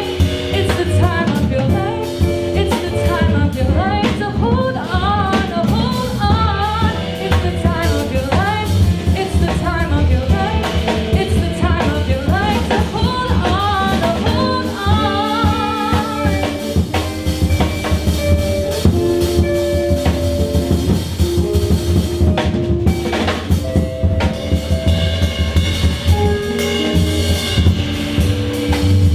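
Jazz band with drum kit playing, a female voice singing wordless gliding lines over it for about the first half; after that the voice drops out, leaving held instrumental notes over busy drums.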